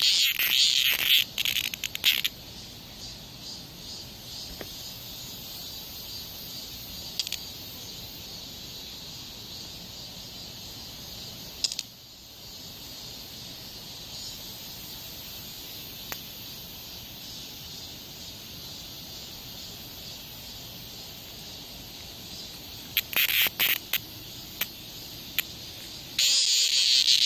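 A cicada buzzing in loud, shrill bursts: a couple of seconds of buzzing at the start, another burst of several short buzzes about 23 seconds in, and a loud continuous buzz setting in about a second before the end. Between the bursts there is a quieter steady hiss.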